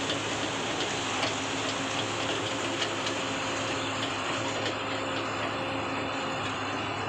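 Excavator's diesel engine running steadily, with scattered light clicks and rattles.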